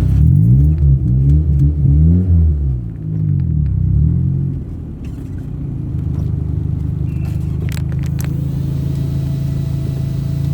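Motor vehicle running, with a low engine and road rumble. Its pitch rises and falls for the first few seconds, then settles into a steady drone.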